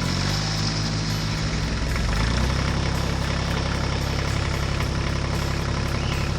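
Heavy construction machine's engine running steadily at idle, with a slight change in its note about two seconds in.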